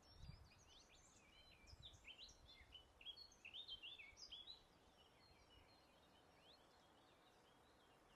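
Faint songbird singing a rapid phrase of quick, high, chirping notes that stops about four and a half seconds in. A few fainter distant chirps follow, over a soft low breeze.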